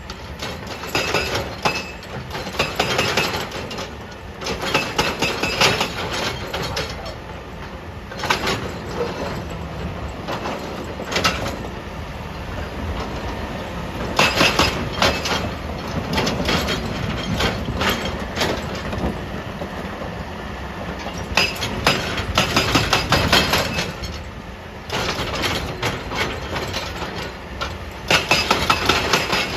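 Excavator's hydraulic breaker hammering rock in repeated runs of rapid metallic impacts, each run lasting a second or two, over the excavator's steady diesel engine.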